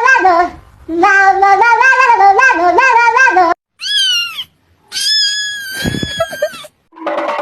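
A quick tune of short pitched notes, then a short falling cat meow about four seconds in and a longer, drawn-out meow right after it; the tune comes back briefly near the end.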